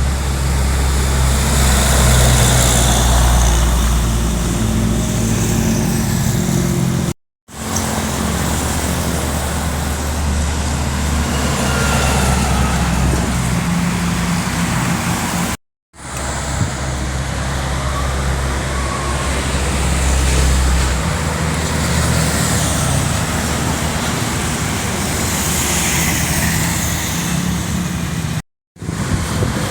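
Heavy diesel trucks running past on the road, with a deep engine drone over tyre and wind noise. The sound is broken three times by brief cuts to silence.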